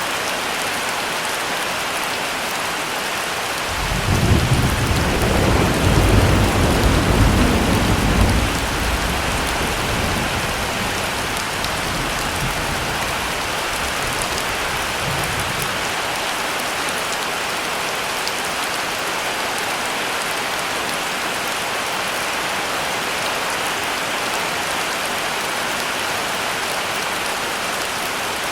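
Heavy rain falling steadily, with a roll of thunder starting about four seconds in that rumbles for several seconds and fades away, followed by a fainter low rumble later on.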